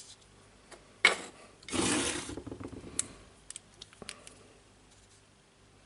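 Small metal parts of a jigsaw's gear and pin mechanism being handled during reassembly: a sharp click about a second in, a brief scrape just after, then a few light ticks.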